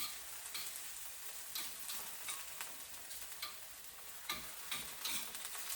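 Ginger and green onion sizzling in hot vegetable oil in a pan, with irregular taps and scrapes of a utensil stirring them.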